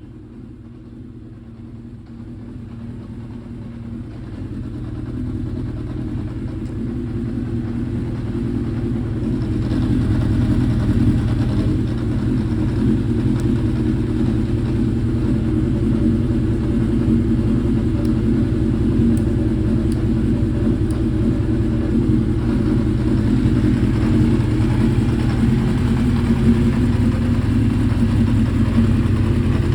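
Honda CB750F's air-cooled inline-four engine idling steadily through a Yoshimura Cyclone muffler, growing louder over the first ten seconds and then holding even.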